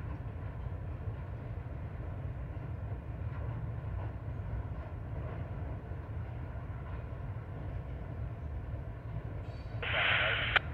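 Train rolling across a steel truss bridge: a steady low rumble. Near the end comes a louder, higher-pitched noise lasting about a second, cut off by a sharp click.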